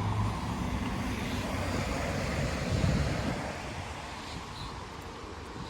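Wind buffeting a phone's microphone outdoors: a rushing, fluttering noise that eases off a little after the midpoint.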